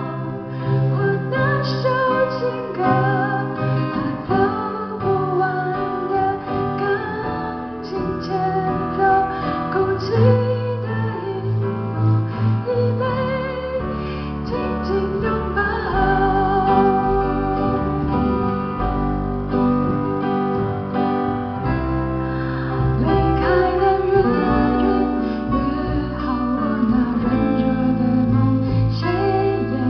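Live band performance of a pop ballad: a woman singing over guitar and bass, with a deeper bass line coming in about halfway through.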